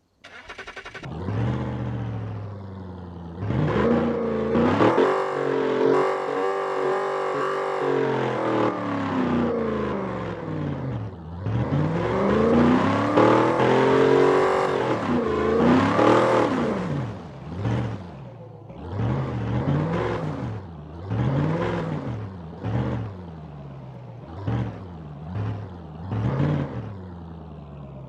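Straight-piped exhaust of a Lincoln Town Car's 4.6 L V8, with no mufflers. After a short idle it is revved in two long pulls, held high for a few seconds each. In the second half it is blipped in short, quick revs about once a second, dropping back toward idle between them.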